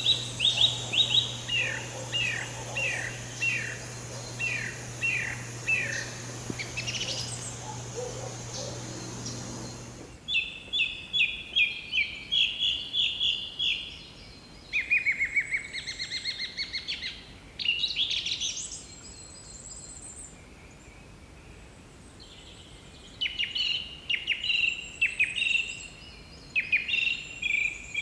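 Bird calls: rapid series of short, sharp notes that slide downward, repeated in bursts with pauses between. About ten seconds in the background hum drops away, as at a cut to another recording, and the calling goes on in quick trilled groups.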